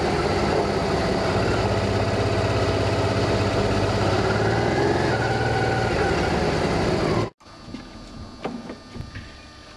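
Honda Africa Twin's V-twin engine running as the motorcycle rides through traffic, heard together with wind noise, its pitch rising a little around the middle. It cuts off suddenly about seven seconds in, leaving a quiet room with a few faint clicks and knocks.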